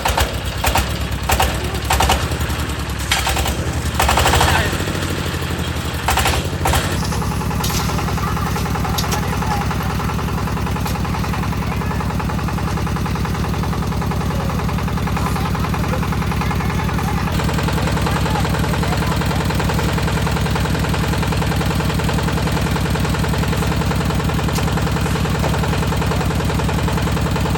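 Concrete mixer's engine running steadily, with a run of sharp clattering knocks during the first several seconds before it settles into an even drone.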